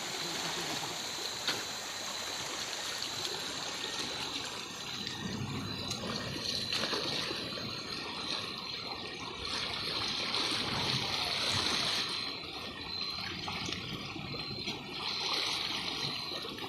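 River water flowing and trickling steadily, with one short click about a second and a half in.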